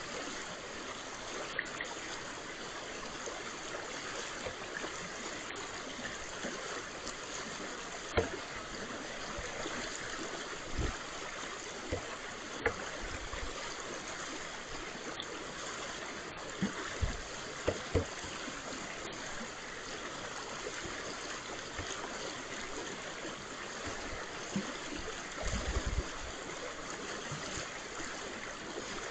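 Brook water running steadily, with a few scattered sharp knocks and low thumps over it.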